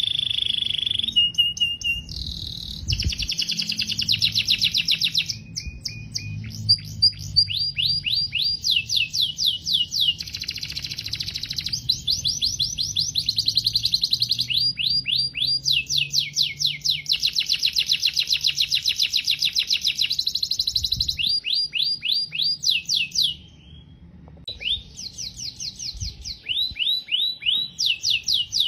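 Domestic canary singing a long, continuous song of fast trills, each made of rapidly repeated rising notes, with a few held whistles. The phrases change every second or two, with a short break about three quarters of the way through.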